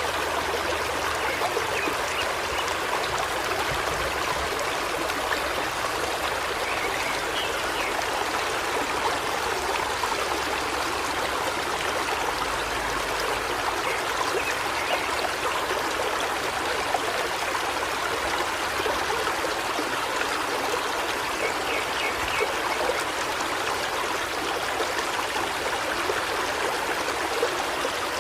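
A river stream flowing steadily over rocks, with faint bird chirps twice.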